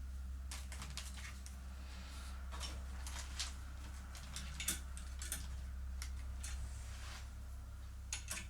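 Scattered light clicks and taps of small hardware being handled, over a steady low hum.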